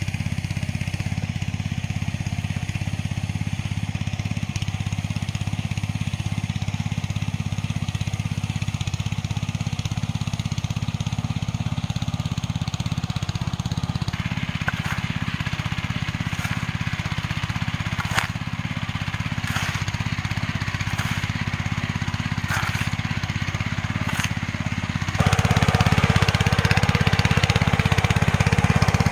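Small engine running steadily. About halfway through its sound turns busier with a few sharp ticks, and near the end it steps up louder, as if taking on more load or revs.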